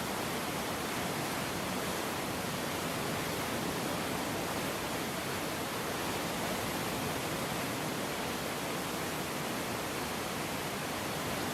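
Steady rushing roar of a river in flood, an even, unbroken wash of water noise.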